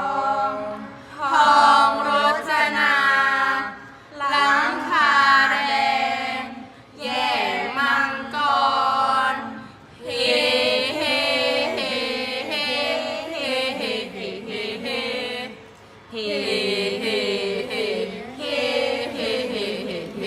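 Voices chanting Thai kap he ruea, the royal barge chant, in long, wavering held notes, phrase after phrase with short breaks for breath between.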